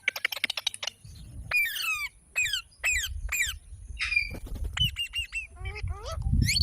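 Green parrot calling: a quick run of short chirps, then several sharp falling squawks and a string of short repeated notes. A low rumble sits underneath and grows near the end.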